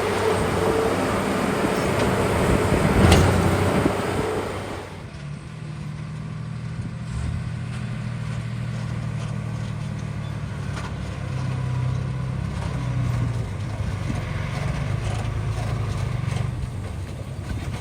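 Small crawler bulldozer's diesel engine and running gear, loud and noisy for the first few seconds while working, with a sharp click about three seconds in. It then settles at about five seconds into a quieter, steady engine run.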